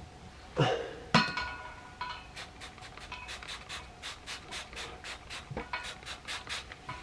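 Hand trigger spray bottle of soapy water squirted over and over, about four quick squirts a second, after two sharp knocks about a second in.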